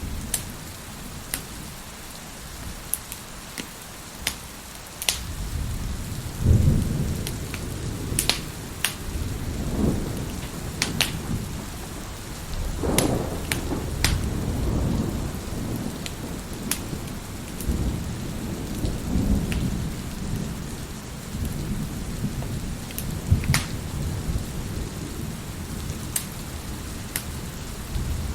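Steady heavy rain with thunder rumbling several times, the loudest roll about six seconds in, while a wood fire crackles with scattered sharp pops.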